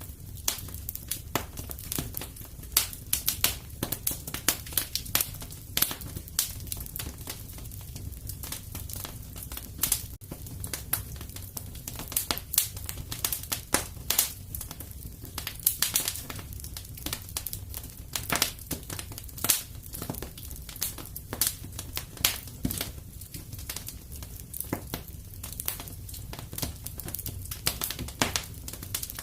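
Fire crackling in a fireplace: frequent irregular pops and snaps over a steady low rumble of the flames.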